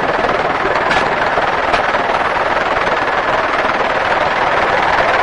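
Helicopter in flight, heard from inside the open cabin: a steady, even rushing noise of engine, rotor and wind with no distinct beat.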